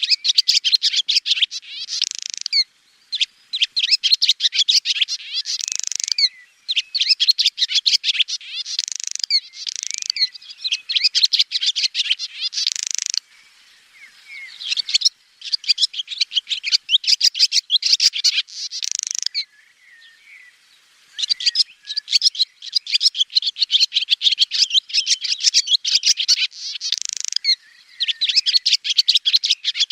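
Swallow singing: repeated bouts of rapid, high twittering, each a couple of seconds long and ending in a harsher buzzy note, with brief pauses between bouts.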